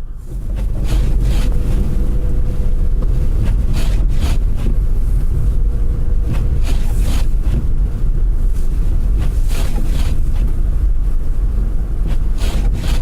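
Steady low rumble of a car driving on snowy roads, with a few short hisses now and then.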